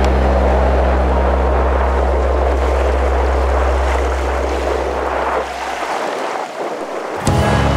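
Strong gusting wind rushing over the microphone, under a steady low drone that fades away about five seconds in.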